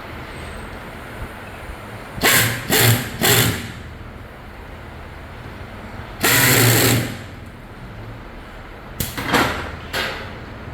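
A power tool run in short bursts over a steady factory hum: three quick bursts, then a longer one about a second long, then a few more short ones near the end.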